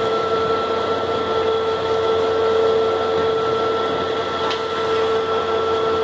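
Steady machinery hum with a constant whine held on a couple of fixed pitches, unchanging throughout.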